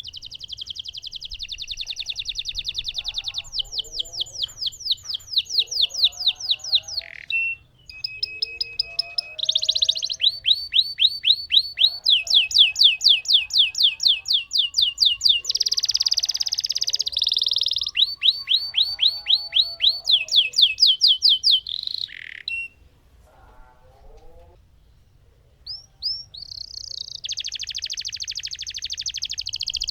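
Lemon canary singing long rolling trills: fast runs of repeated high notes, each phrase at its own speed and pitch, chained one after another, with a pause of a few seconds about three-quarters of the way through.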